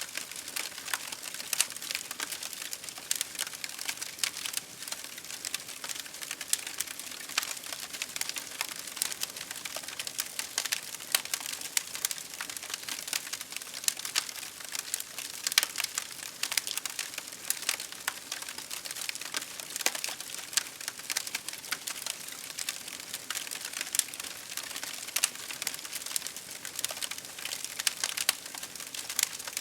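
Wood fire crackling continuously with many sharp pops, over a steady hiss of rain.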